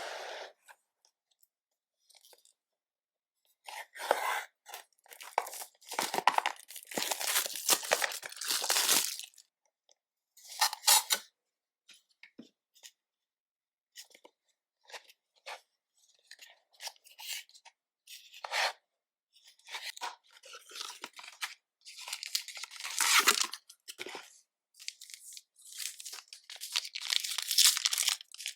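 Plastic wrapping on Pokémon 151 booster bundle packaging being torn open and crinkled by hand. It comes in irregular bursts with short quiet pauses, the longest and loudest stretches about a quarter of the way in and again near the end.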